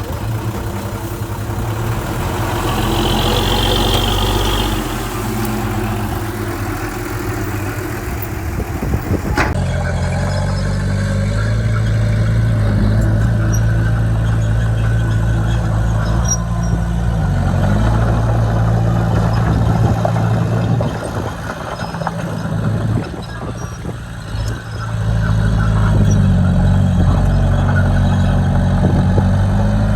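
Heavy diesel engines of earthmoving equipment running, with the note dipping and recovering several times as the load changes; the sound changes abruptly about a third of the way through.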